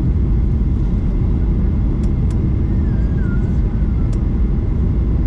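Boeing 737 MAX 8 cabin noise: a steady, loud low rumble of the engines and airflow heard from inside the cabin, with a few faint clicks.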